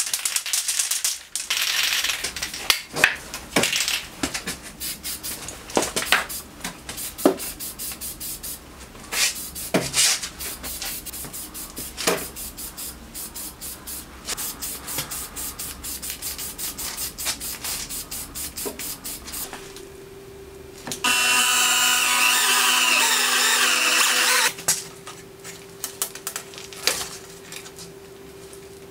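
Aerosol spray-paint can being shaken, its mixing ball rattling in quick repeated clicks, with hisses of paint spraying. About three quarters of the way through, a loud steady hiss with a whine runs for about three and a half seconds.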